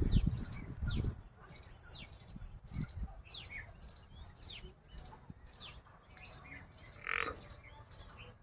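A small bird calling repeatedly: short, high, falling chirps at about one a second. A burst of low rumbling noise fills the first second, and a brief louder sound comes about seven seconds in.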